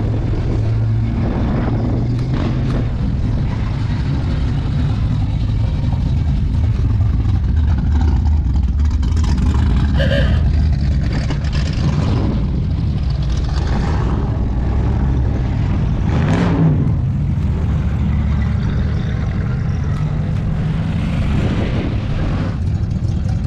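Big V8 engines of classic American cars and trucks running as they roll past in a line, a steady deep exhaust rumble.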